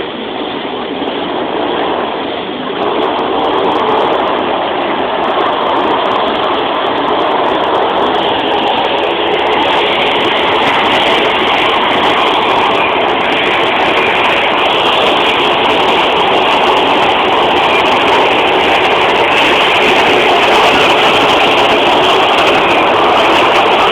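Several motorcycle engines running together, revving at high speed inside a steel circus globe, a dense, continuous roar that builds over the first few seconds and then stays loud.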